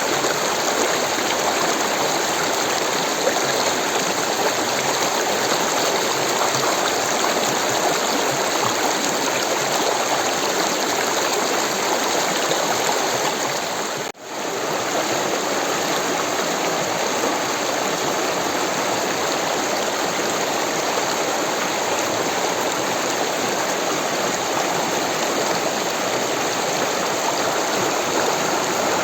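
Rushing stream water, a steady even hiss of flowing water that dips briefly to near silence about halfway through, as at a loop join.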